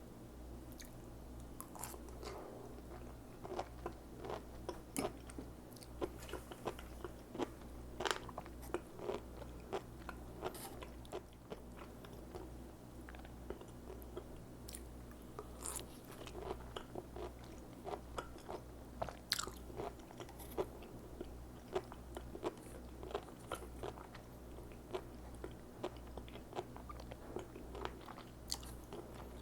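Close-up chewing of sea grapes: a run of crisp, irregular crunches and small pops as the beads burst in the mouth, over a steady low hum.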